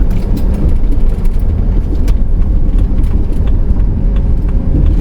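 Cabin noise of a moving Pleasure-Way Class B camper van: a steady low engine and road rumble, with scattered light clicks and rattles.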